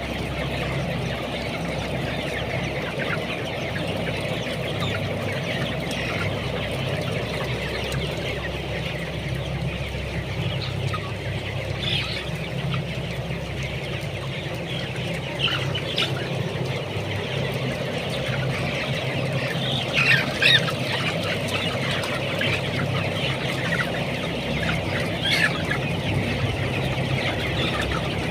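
A flock of broiler chickens about 20 days old, clucking and chattering continuously, with a few louder calls standing out about twelve, sixteen, twenty and twenty-five seconds in. A steady low hum runs underneath.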